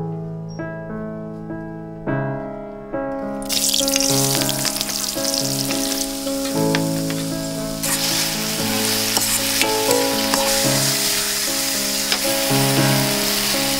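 About three and a half seconds in, chicken strips hit hot oil in a steel wok and start sizzling loudly, then keep frying while being stirred with a metal ladle, with light clicks of metal on the pan. Piano background music plays throughout.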